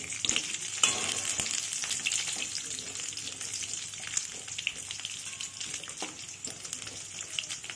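Potato wedges sizzling as they shallow-fry in hot oil in a kadai, with a metal spatula scraping and clicking against the pan as they are turned.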